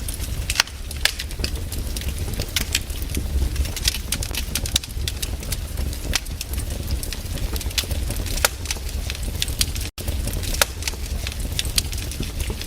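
Wood fire crackling in a fireplace: irregular sharp pops and snaps over a steady low rumble of the flames. The sound cuts out for an instant about ten seconds in.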